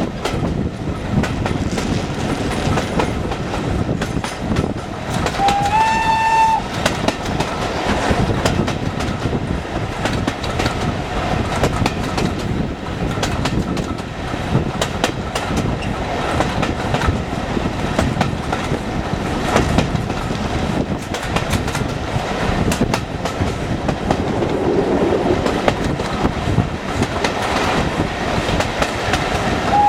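Heritage train running along the track, a steady rumble with rail-joint clickety-clack throughout. The train's whistle gives one short, slightly rising blast about six seconds in, and a second blast starts at the very end.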